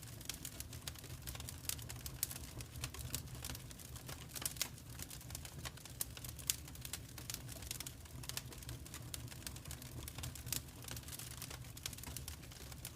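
Wood fire crackling in a fireplace: a dense, irregular run of small sharp pops and crackles over a steady low rumble.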